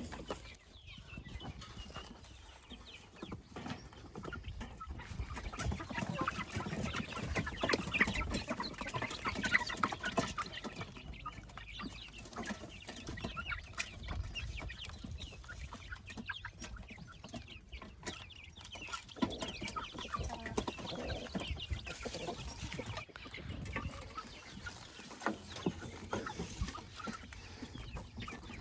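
Chickens clucking with many short calls, busiest about a third of the way in, with scattered light knocks.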